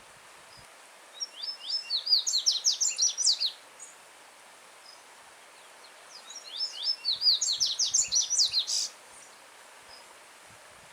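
Yellow-bellied seedeater (coleiro-baiano) singing two loud, fast phrases of sharp down-slurred notes, each about two and a half seconds long, a few seconds apart. Under it, the steady hiss of a stream running over stones.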